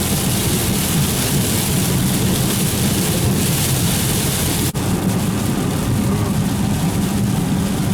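Steady vehicle road noise with a hiss of heavy rain. The sound drops out for an instant a little past halfway.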